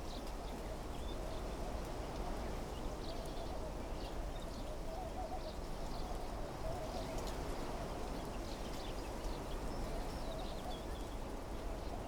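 Wind blowing steadily through desert trees and shrubs, with a low rumble, while small birds give short, high chirps scattered throughout.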